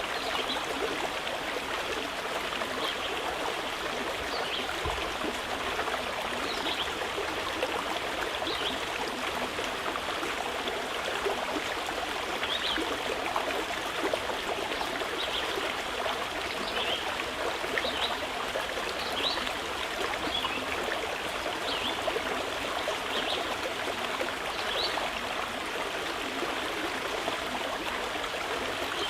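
Mountain river flowing steadily over rocks, with short, faint, high bird chirps every second or two.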